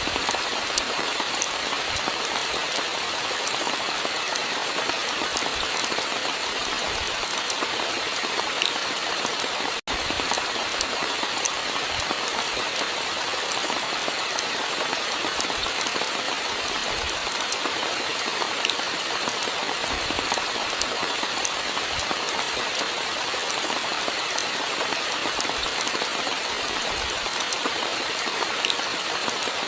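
Steady rainfall, a dense hiss dotted with the ticks of individual drops, with a split-second dropout about ten seconds in.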